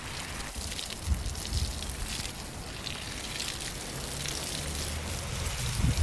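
Heavy rain falling in a dense patter of drops, with a few low thumps just after a second in and near the end.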